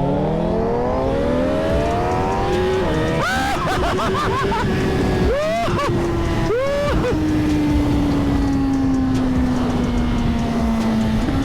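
Suzuki GSX-R1000 sport-bike engine pulling away, its pitch climbing, then several quick revs about three to seven seconds in before settling into a long steady drone that slowly falls in pitch.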